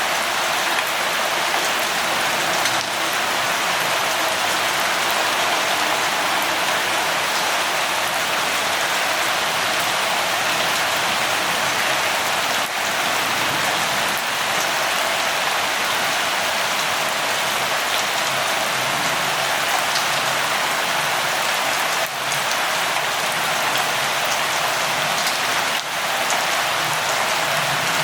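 Steady light rain falling, an even hiss of drops with no let-up.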